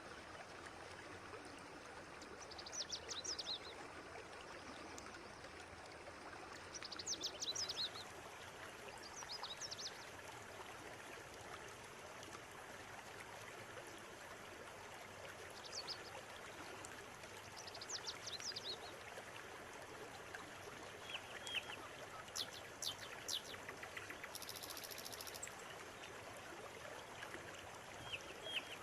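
River water running steadily, with songbirds breaking in several times with short bursts of high chirps, busiest in the second half.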